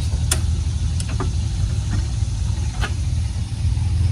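A few sharp clicks and knocks as the raised 2004 Chevrolet Impala is rocked by hand in a shake test, checking that it sits securely before work on the brakes. A steady low rumble runs underneath.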